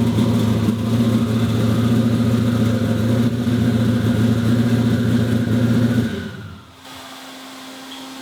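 Truck engine running at a steady idle just after its first start on a FuelTech engine management system. It shuts off about six seconds in, leaving a quieter steady hum.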